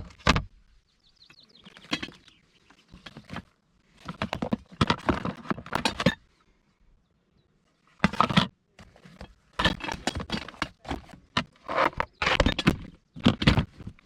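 Camping gear and car fittings being handled: irregular rustling, clicks and knocks in a series of short bursts with quiet gaps between them.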